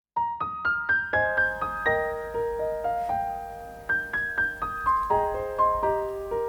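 Background music: a gentle piano-like keyboard melody of single notes, starting about a quarter second in with a quick rising run.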